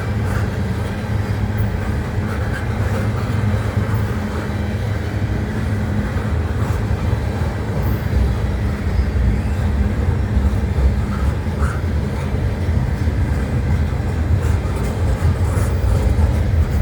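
Loaded freight train rolling by, its wheels on the rails making a steady heavy rumble with a few faint clicks.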